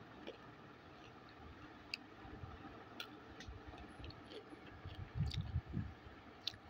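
Faint chewing of roasted clay (nakumat) pieces: a few sharp crunches a second or more apart, with low chewing thuds a little after the middle.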